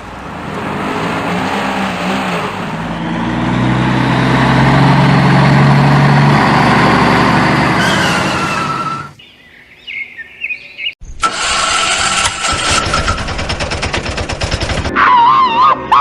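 Vehicle engine sound running for several seconds, then cutting off abruptly. A loud stretch with a fast rattling rhythm follows, and near the end a wavering tone.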